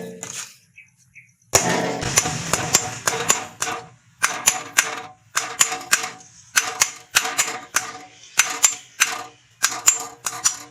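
Blacksmith's hammer striking hot rebar steel on an anvil, forging tongs: sharp ringing blows in quick runs of several strikes with short pauses between. The hammering starts about a second and a half in.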